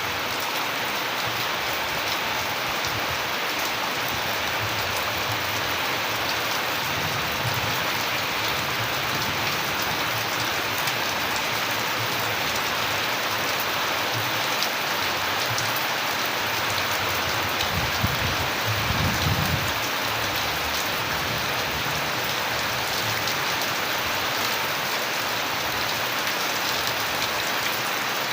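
Steady rain falling on surfaces, a dense even hiss of drops. A brief low rumble comes about two-thirds of the way through.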